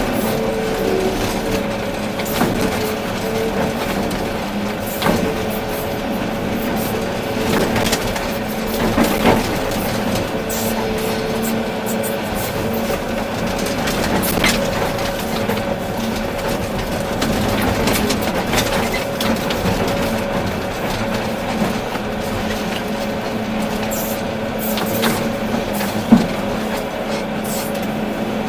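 Volvo EC380D excavator's diesel engine and hydraulics running steadily under work, with scattered knocks and clatter of material and the machine's bucket, and one sharp bang a couple of seconds before the end.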